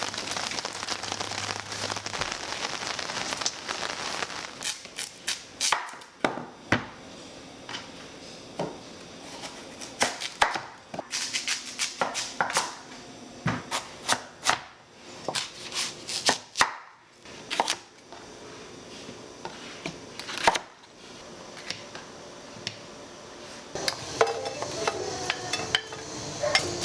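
Kitchen knife chopping on a cutting board in irregular strokes, some close together, with a steady hiss in the first few seconds.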